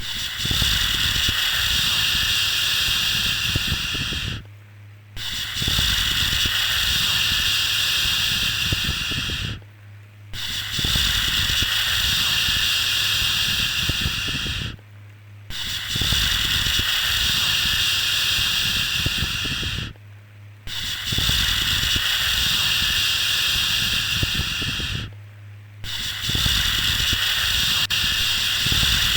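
A shushing 'shhh' sound for lulling a baby to sleep, repeated over and over: each long hiss lasts about four and a half seconds, then breaks off for about half a second before the next.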